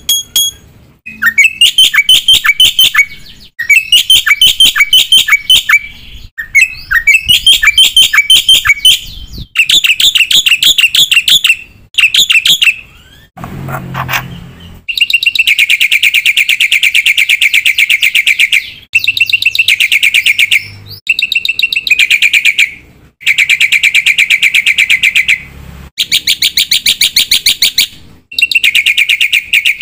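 Black-winged myna (jalak putih) singing loudly in phrases of rapid repeated ringing notes, each a second or few long with short pauses between, and one harsher rasping call about halfway through.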